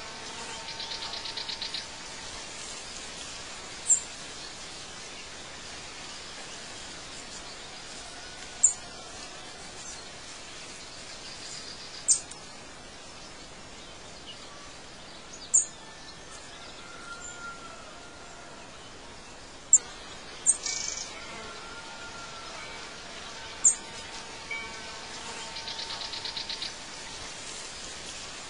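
Birds chirping: short, sharp high chirps every few seconds over a steady faint hiss, with a buzzy trill about a second in and again near the end.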